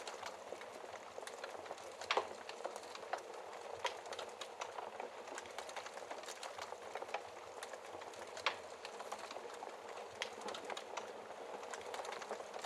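Wood fire burning in a fireplace: steady hissing with irregular crackles and small pops from the logs, two louder pops about two seconds in and again near eight and a half seconds.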